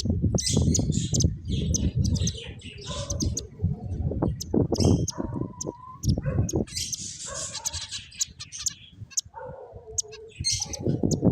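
Pet finches chirping: many short, high chirps and tweets overlapping throughout, over repeated bursts of low rumble.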